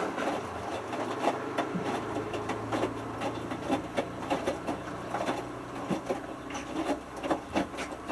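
Hotpoint Futura HF8B593 washing machine in its main wash: a steady motor hum cuts off at the start, then water sloshes and the small load splashes inside the turning drum in many irregular short knocks. A fainter low motor hum comes back about a second and a half in.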